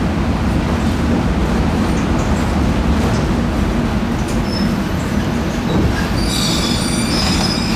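Kobe Electric Railway 1100 series electric train running, heard from inside the passenger car as a steady rumble. About six seconds in, a high squeal of several pitches sets in from the wheels and brakes as the train slows for its stop.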